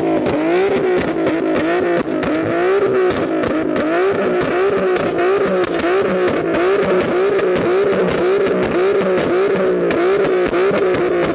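Infiniti G37 coupe's V6 engine being revved over and over in quick blips, just under two a second, while the car rolls slowly.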